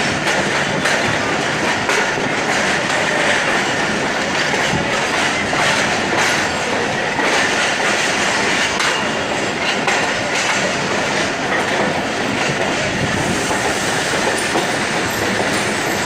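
Passenger train coaches rolling past as the train arrives at the station, wheels clattering steadily over the rail joints. Thin high wheel squeal appears near the end.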